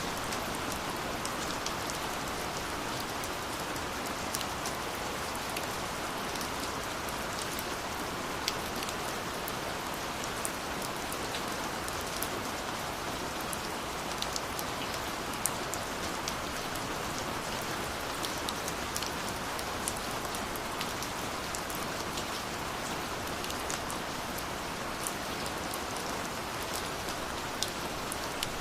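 Steady rainfall, an even hiss with individual drops ticking sharply on a nearby surface every so often.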